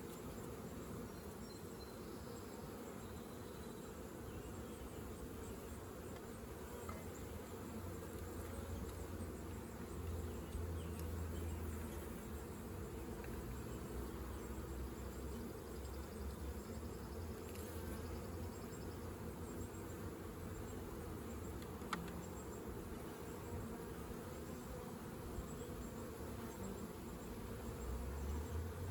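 A mass of honeybees buzzing around the hive, a steady low hum that swells a little now and then.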